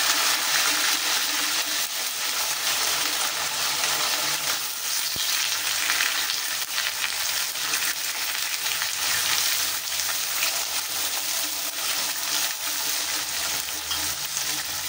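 Chunks of white eggplant frying in hot oil in a wok, a steady sizzle.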